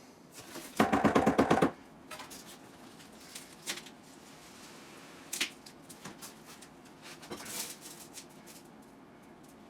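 Work noise while wet concrete is placed in a drain hole: a loud, rapid rattling clatter about a second in, then scattered knocks and scrapes.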